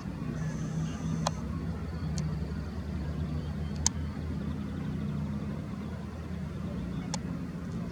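Steady low hum of a vehicle engine, with three short sharp clicks: about a second in, near four seconds, and about seven seconds in.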